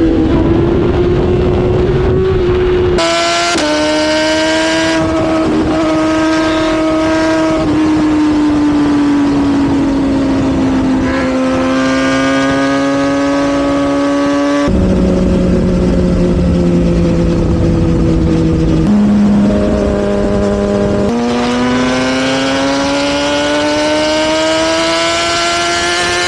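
Sportbike engine running hard at high revs while riding, its pitch drifting slowly up and down with several sudden jumps in pitch. Low wind rush in the first few seconds.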